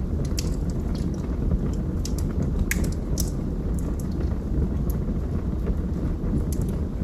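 Wood fire burning in a fireplace: a steady low rush of flames with scattered sharp crackles and pops, the loudest pops about three seconds in.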